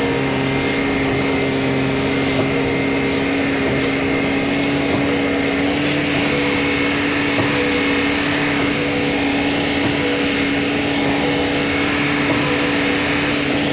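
Heavy diesel engine running steadily at a constant speed, a continuous humming drone from the concrete trucks and pump working the pour.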